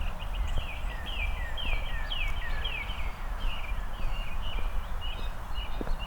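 A songbird singing a run of clear, repeated down-slurred whistles, about two a second, loudest in the first half and then fading, over a steady low outdoor rumble.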